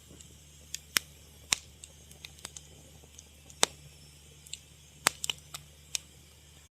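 Burning wood crackling: irregular sharp pops and snaps, about a dozen, some much louder than others, over a faint low steady hum. The sound cuts out completely just before the end.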